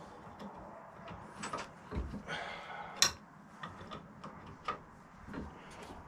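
Light metal clicks, knocks and a short scrape of tools and parts being handled on a Myford ML7 lathe, as a part is adjusted to take up play. The sharpest click comes about three seconds in.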